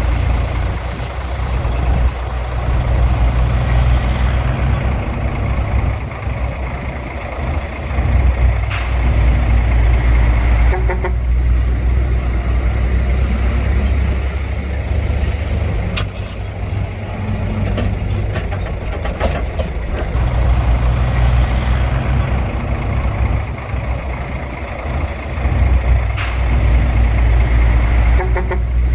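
Heavy diesel engine of earthmoving machinery running, its level rising and easing every few seconds, with a handful of sharp clanks.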